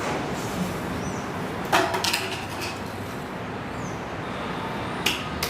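A loud sharp knock a little under two seconds in, a second soon after, and two shorter knocks near the end, over a steady background hiss.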